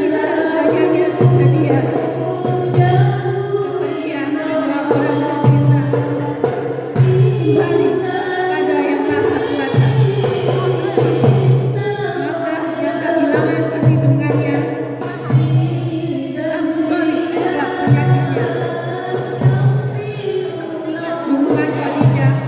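A group of voices singing a sholawat, an Islamic devotional song, over a low drum beat with lighter hand-percussion.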